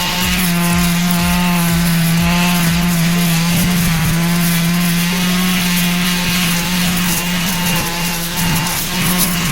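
Engine-powered brush cutter running at a steady high speed, one unbroken engine note.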